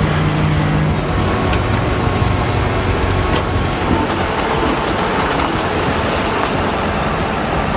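A heavy vehicle running steadily, its engine and rolling noise heard as a constant low rumble with a few faint clicks.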